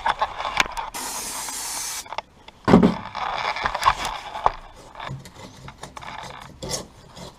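A one-second burst of aerosol brake cleaner spraying about a second in, used as a degreaser, followed by a knock and irregular rubbing and scraping as the sprayed metal is wiped.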